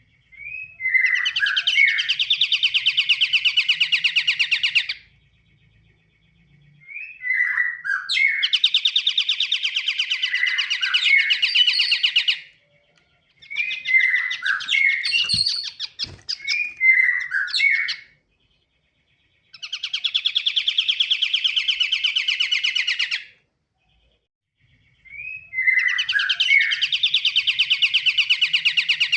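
Pied triller (kapasan kemiri) singing: five bouts of a long, fast trill of about four seconds each, separated by short pauses. Each bout opens with a few short sliding notes, and the middle bout breaks briefly partway through.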